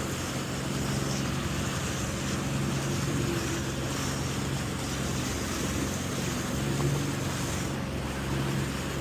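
Jet ski engine running at a steady pitch, under a steady rush of wind and water.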